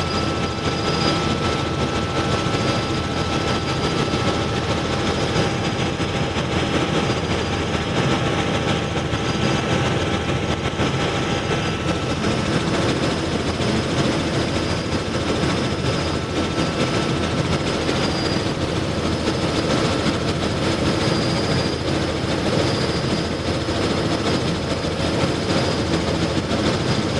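Helicopter turbine and rotor noise heard from inside the cabin: a loud, steady drone with a thin high whine running over it.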